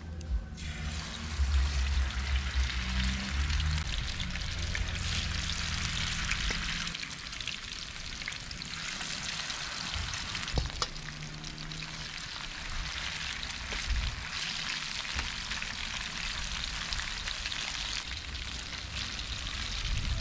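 Chicken pieces sizzling in hot oil in a frying pan, starting about half a second in as they go into the pan, with a couple of sharp knocks of a utensil against the pan. The meat is being browned before stewing.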